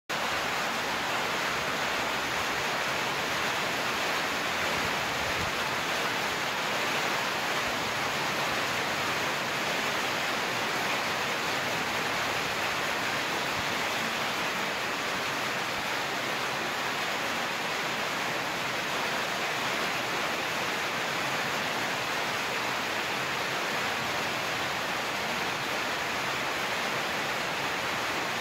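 Steady rain falling: an even, unchanging hiss with no separate drops or gusts standing out.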